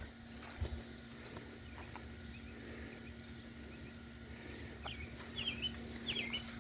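Faint steady hum with a few short bird chirps near the end.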